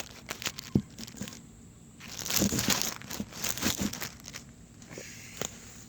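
Handling noise on a phone's microphone as it is set in place: crinkling, rustling and scattered clicks, loudest for about two seconds from two seconds in.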